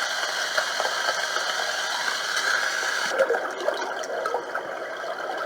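White noise machine playing a recorded rain sound through its small speaker, switching about three seconds in to a softer running-water creek recording.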